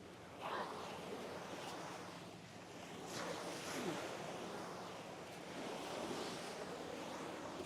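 Sea waves washing onto a beach, a steady rush that surges louder a few seconds in and again later.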